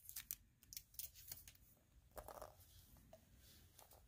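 Mostly near silence, with a few faint clicks and rustles of a surprise toy's plastic packaging being handled and opened.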